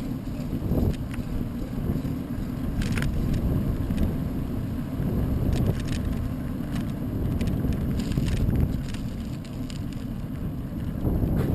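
Wind buffeting the microphone while cycling into a headwind: a steady low rumble, with a few short ticks and rattles from the bicycle scattered through it.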